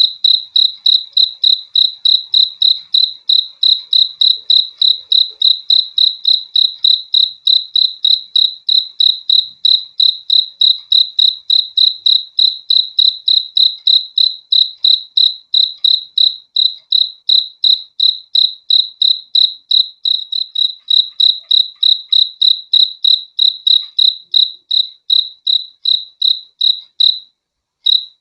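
A cricket chirping steadily at one high pitch, about four chirps a second, with a single pause of about a second near the end.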